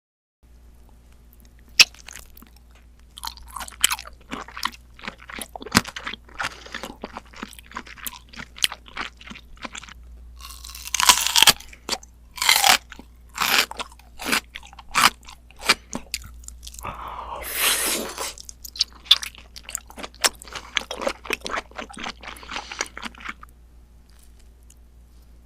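Close-miked eating: a run of short, crisp crunches and chewing, with a couple of longer, louder crunching bites near the middle and about two thirds in.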